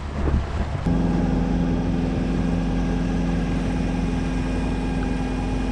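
A sailboat's inboard diesel engine running at a steady speed, a constant even hum. It sets in abruptly about a second in, after low wind rumble on the microphone.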